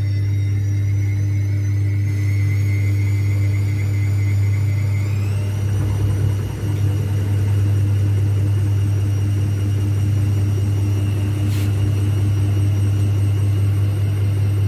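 Zanussi ZWSE680V front-loading washing machine spinning on its last spin, its shock absorbers newly repaired. The motor's whine climbs slowly, steps up about five seconds in as the drum speeds up, then holds steady over a deep hum.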